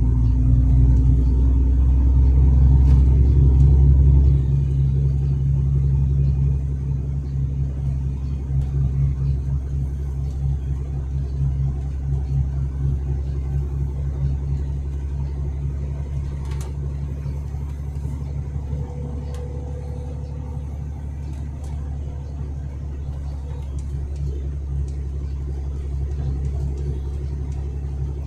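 Truck engine running with a steady low rumble, heard from inside the cab; it is louder for about the first four seconds, then drops and settles.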